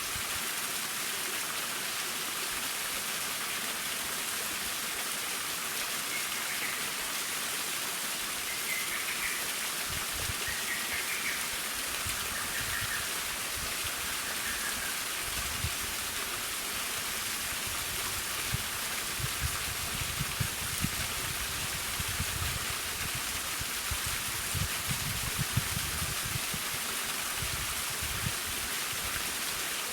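Waterfall splashing, a steady, even hiss of falling water. Low rumbling bumps come and go through the second half.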